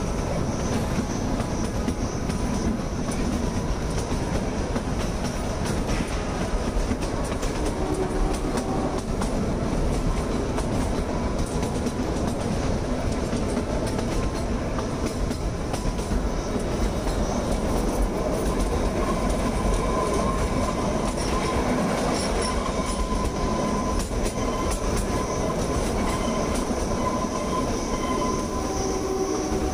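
Kalka–Shimla narrow-gauge toy train running steadily through curves, heard from an open coach window: a continuous rumble and clatter of wheels on the rails, with faint thin wheel squeals now and then.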